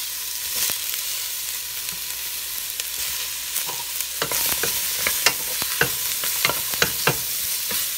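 Yellow squash chunks and onions sizzling in hot oil in a steel pot. About halfway through, a spoon stirring them clicks and scrapes against the pot a dozen or so times.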